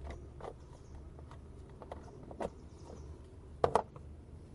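Scattered light clicks and knocks of hands working in a car's engine bay while the fluids are checked, with two sharp knocks in quick succession near the end.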